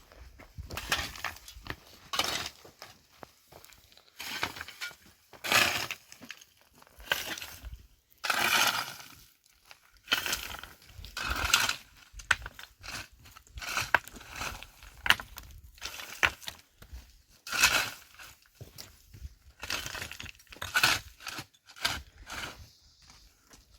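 Irregular clinking, knocking and scraping of hard objects being handled, a short burst every second or so.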